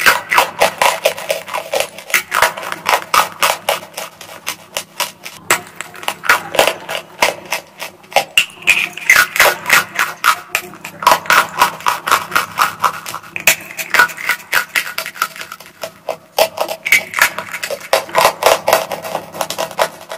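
Close-up crunching and chewing of hard, dry chalk bars being bitten off and ground between the teeth. It comes as rapid crisp crunches, several a second, in runs of a few seconds with brief pauses.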